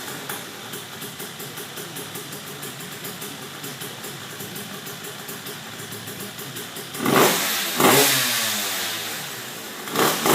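KTM 85 two-stroke dirt-bike engine in a Yamaha Blaster 200 quad idling with a quick, even pulse, then blipped three times in the last few seconds, the revs rising sharply and falling back to idle after each blip.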